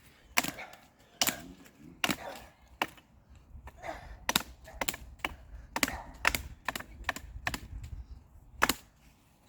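Repeated sharp knocks, roughly one a second but irregular, of something striking a tree in an attempt to break a piece off it.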